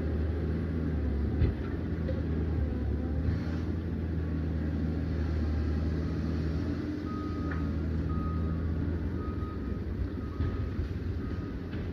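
Liebherr PR 744 crawler dozer's diesel engine running steadily under work, with a few faint knocks. From about seven seconds in, a short high beep repeats roughly once a second.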